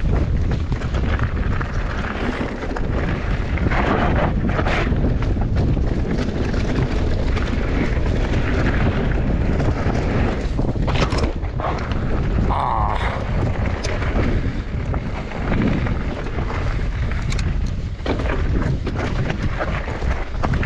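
Wind buffeting the microphone while a mountain bike rattles and clatters down a rough downhill trail, with frequent short knocks from bumps.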